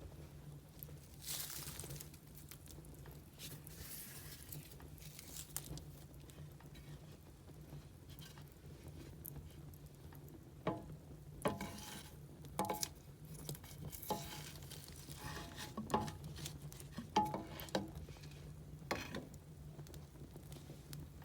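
Burning firewood crackling: a soft hiss with a few brief hissy flares early on, then sharp pops and snaps coming thick and irregular through the second half.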